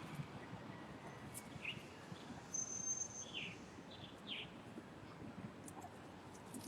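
Faint bird calls: a few short, falling chirps and one thin, high whistle held for under a second, over a low background hiss.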